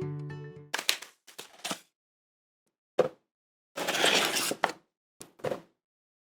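Acoustic guitar music fades out, then a few short food-preparation handling sounds: brief scrapes and rustles, a sharp click about three seconds in, a longer hissing scrape lasting about a second, and a last short scrape near the end.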